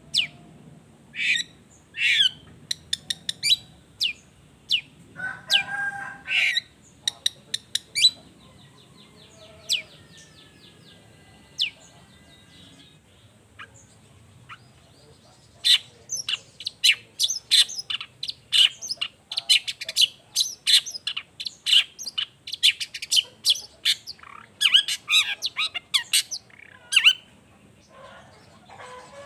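Long-tailed shrike (cendet) singing: a string of sharp chips and whistled notes, with a harsh, rasping stretch about five seconds in. After a short lull near the middle, it breaks into a long, dense run of rapid chattering notes.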